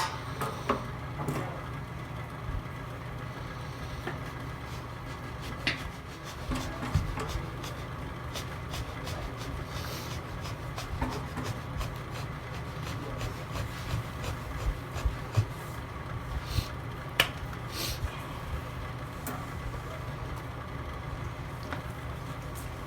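Log fire burning in a fireplace, with scattered crackles and a few sharp pops over a steady low hum.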